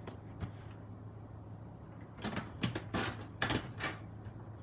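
Craft supplies being handled on a work table: a few faint taps, then about two seconds in a quick run of rustles and knocks lasting under two seconds, over a steady low hum.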